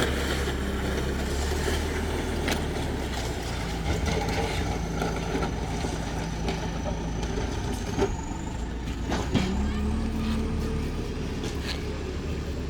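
Heavy machinery clearing storm debris from a beach: a large engine running steadily, revving up about nine seconds in, with a few sharp knocks.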